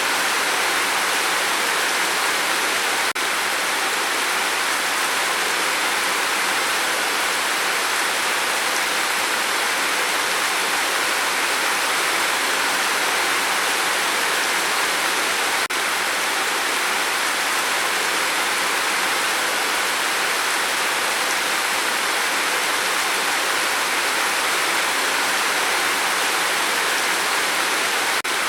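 Steady rain falling: an even, unbroken hiss with no individual drops standing out, dipping very briefly in level a couple of times.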